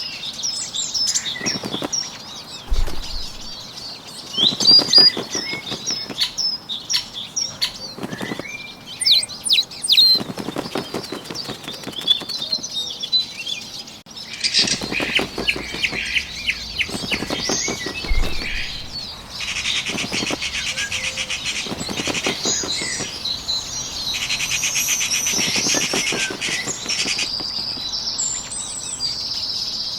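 Bird sound effects: small-bird chirps and tweets with repeated bursts of wing flapping. In the second half the flapping becomes a denser, rapid flutter under the calls.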